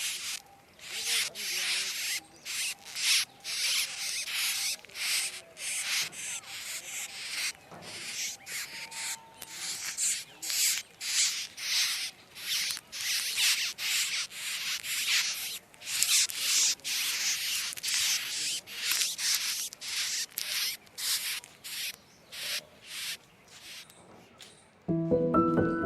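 Rapid, irregular rasping rubbing strokes, a few a second, that stop about a second before the end, where music begins.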